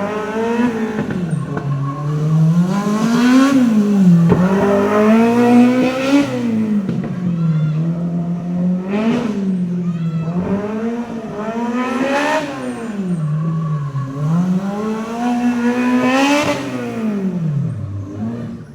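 Car engine revved over and over: it holds a steady idle, then its pitch climbs and drops back, about five times.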